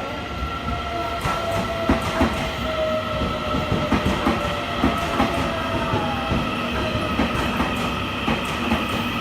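Train moving along the track, its wheels clacking irregularly over the rails with a steady whine.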